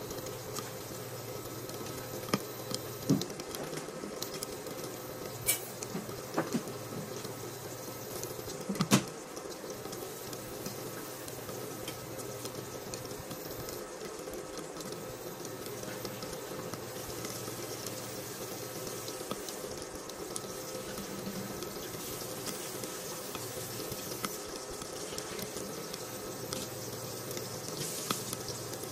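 Pork pieces frying in fat under a glass lid: a steady sizzle with scattered sharp pops of spattering fat in the first several seconds, the loudest about nine seconds in.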